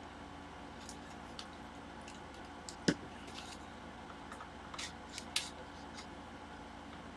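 Scattered small clicks and scrapes of tools prying a tablet's glued-down screen loose from its adhesive, with one sharp click about three seconds in, over a steady faint hum.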